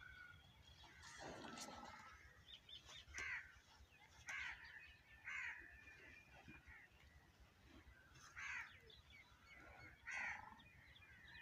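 Faint bird calls in the background: about five short calls at uneven gaps of one to three seconds.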